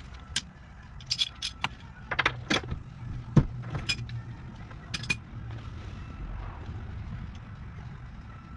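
Metal hand tools clinking and clicking as a socket wrench and sockets are handled at a car's wheel hub, a scatter of short sharp strikes with one heavier knock about three and a half seconds in, over a low steady hum.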